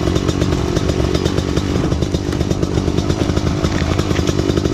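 Off-road motorcycle engine running hard under load, its rapid firing pulses surging unevenly as the rider works up a steep trail climb, getting a little louder near the end.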